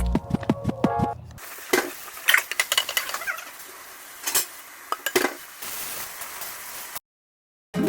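Kitchen clatter: scattered sharp clinks of dishes and utensils being handled over a faint hiss. The sound cuts out completely shortly before the end.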